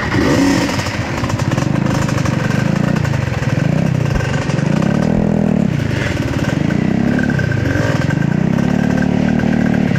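Trail motorcycle engine running under load, its revs rising and falling about five times in a row as the throttle is opened and eased off.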